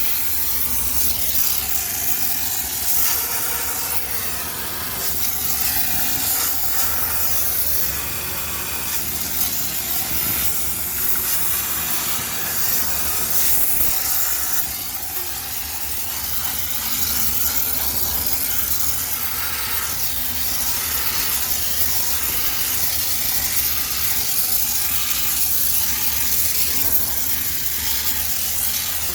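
High-pressure steam cleaner jetting steam while a coin-laundry washing machine is sterilised: a steady loud hiss that rises and falls a little, over a faint low hum.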